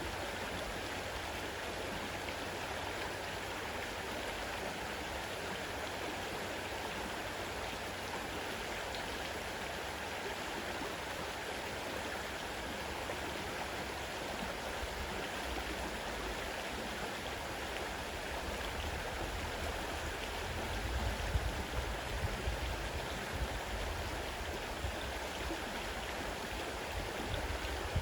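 Fast-running river water rushing steadily, with some low rumbles a little past two-thirds of the way in and again near the end.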